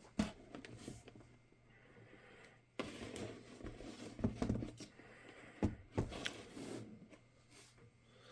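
Hands working on an HP 15s laptop: several sharp clicks and knocks of plastic and tools against the case and work surface, with rubbing and scraping between them.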